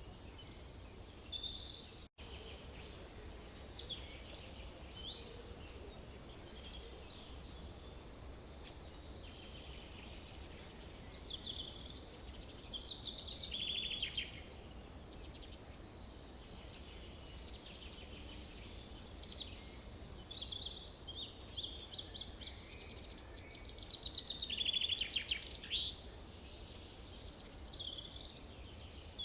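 Forest birdsong: several birds singing and calling over one another, with a louder rapid trill about halfway through and another near the end, over a faint steady low rumble. The sound cuts out for an instant about two seconds in.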